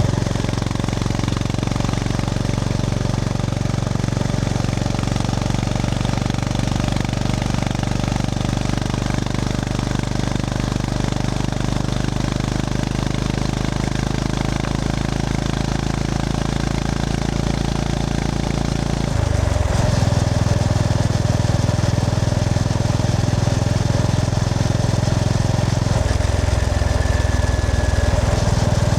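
Honda GB350S's air-cooled single-cylinder engine running under way at steady revs; about two-thirds through the pitch shifts and the engine gets louder, with another change in revs near the end.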